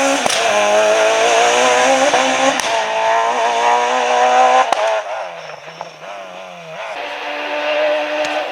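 Rally car engines at high revs on a special stage. For about five seconds a loud engine note climbs and dips as the car changes gear, with a couple of sharp cracks. It then falls away to a quieter engine note rising and falling, and near the end a steady engine note comes in.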